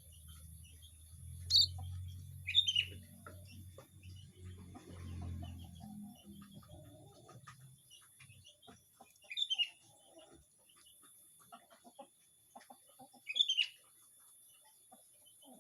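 Small emprit finches (munias) chirping: sharp, high calls in four short loud bursts, two close together early on and two more further in, over a low rumble that fades out about halfway through.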